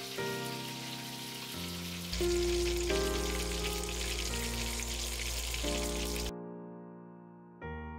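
Panko-breaded pork cutlets sizzling as they fry in hot oil, with background music over them. The sizzling cuts off suddenly a little past six seconds in, leaving only the music.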